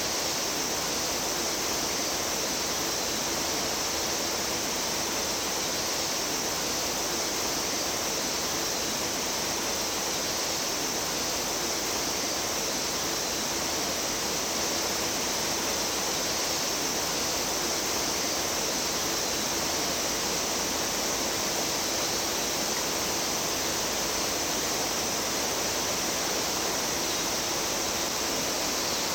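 Mountain stream water flowing over rocks: a steady, even rush of water.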